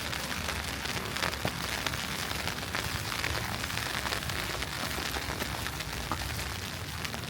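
Steady hiss of falling wet snow, dense with many fine small taps.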